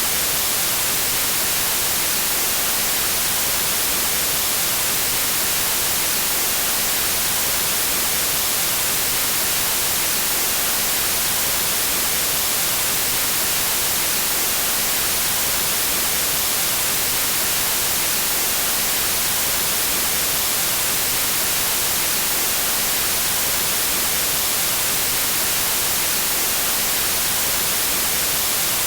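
Steady, unbroken white noise: an even hiss without rhythm or tones.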